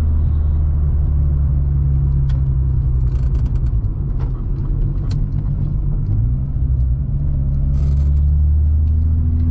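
Modified 2.8-litre 12-valve VR6 engine of a Mk2 GTI, with cams and a 63 mm exhaust, running under way with a steady low rumble. Its note dips around four seconds in and climbs back about two seconds later.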